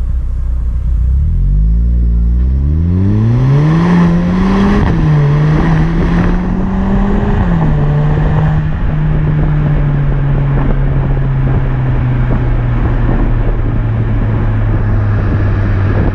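Exhaust of a Stage 2 VW Golf GTE's 1.4 turbo petrol engine, fitted with an aftermarket downpipe and 200-cell sports cat, heard from the rear of the car. It accelerates with the pitch rising, drops at an upshift just before five seconds in, rises again to a second upshift about seven and a half seconds in, then holds a steady cruise.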